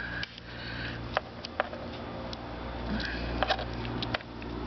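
Scattered light clicks and knocks of hands handling parts, over a steady low hum.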